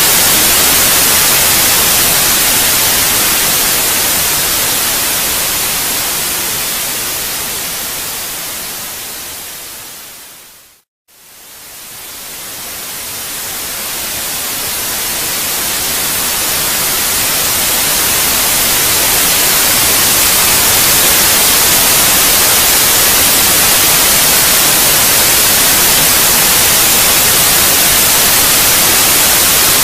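Steady white-noise hiss, brightest in the treble. It fades slowly down to silence about eleven seconds in, then fades back up to full level over the next several seconds.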